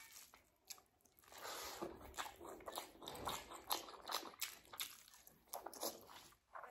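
Close-miked eating sounds: chewing and lip-smacking on a handful of egg curry and rice. It is quiet for about the first second, then comes a run of short, wet smacks and clicks.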